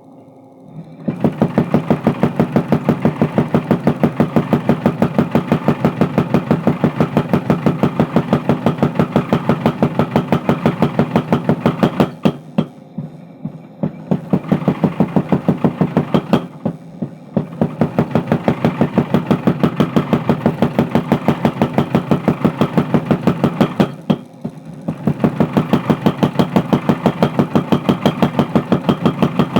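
Mechanical power hammer pounding steel in rapid, evenly spaced blows, several a second, while forging a crowbar. It starts about a second in and stops briefly three times.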